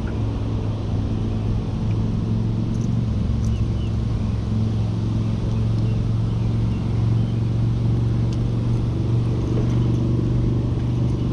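Engine running steadily, a low even drone.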